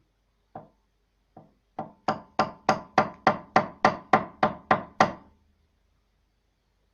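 A hand tool striking wood: two light taps, then about a dozen quick, evenly spaced blows, about three a second, that stop about two seconds before the end.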